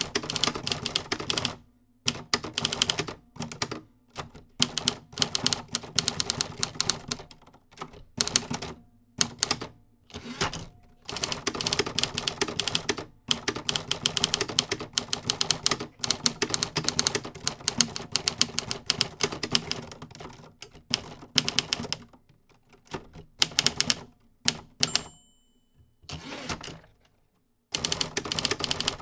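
Typewriter typing: runs of rapid key strikes broken by short pauses, with a single short ring near the end.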